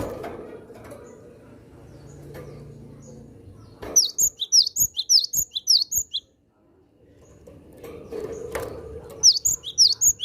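Cinereous tit singing two quick bursts of repeated high two-note phrases, about five notes a second, the second burst starting near the end.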